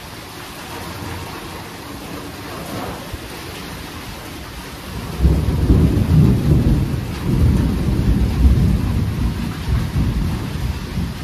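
Steady rain falling, then about five seconds in a sudden thunderclap that rolls on as a deep rumble, rising and falling in waves.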